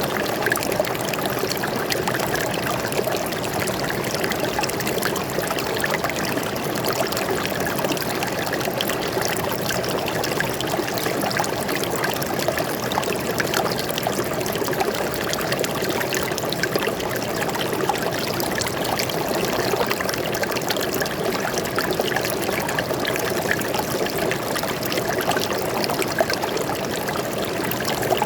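A small stream of water flowing and trickling steadily, with a dense, even babble.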